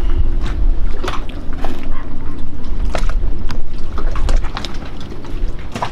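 A dog barking on and off in the background, over a steady low rumble.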